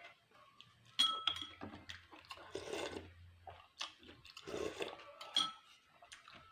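Utensils clinking against dishes while someone eats, with a sharp ringing clink about a second in and two longer swells of eating noise in the middle.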